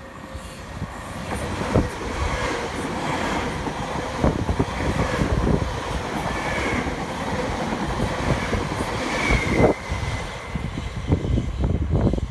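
A 10-car Class 458 electric multiple unit passing through the station at speed: a rush of wheels on rail that swells over the first couple of seconds and holds, with clicks of wheels over rail joints and a couple of brief faint high squeals in the second half.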